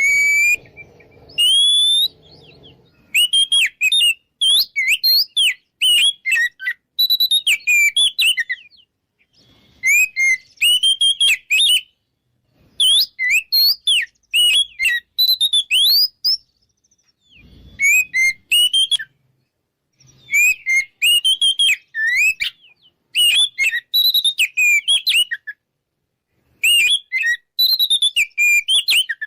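Oriental magpie-robin singing in repeated bursts of loud, clear whistled phrases, each a quick run of rising and falling notes, with short pauses between the bursts. This is the bird's loud, open 'ngeplong' song, used as a lure to rouse rival males to fight.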